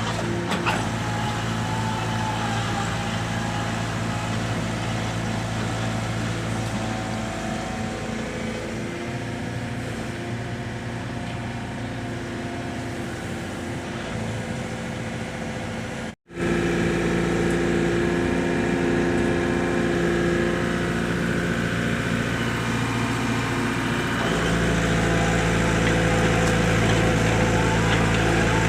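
Mini excavator engine running steadily, its note shifting a few times as the load changes and growing louder near the end. It drops out for an instant a little past halfway.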